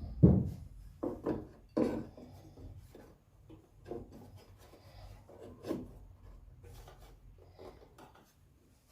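Handling noises: a series of short knocks and rubbing scrapes, the loudest a thump just after the start, then scattered softer strokes.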